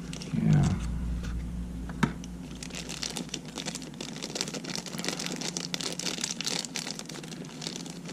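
Small parts and packaging being handled on a workbench: one sharp click about two seconds in, then rapid, irregular crackling from handling.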